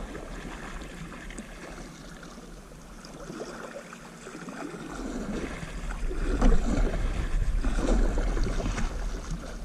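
Water lapping and splashing against canoe hulls as they move off, with wind rumble on the microphone, both louder in the second half.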